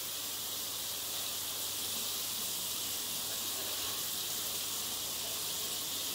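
Meat and chili paste frying under the glass lid of a covered wok, giving a steady hiss.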